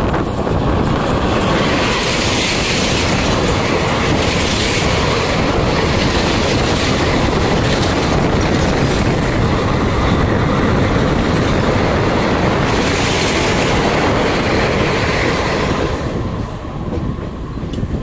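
Suburban EMU electric train running along the track, heard from on board: a loud, steady rumble and rattle of the coach and its wheels on the rails. It eases off somewhat about two seconds before the end.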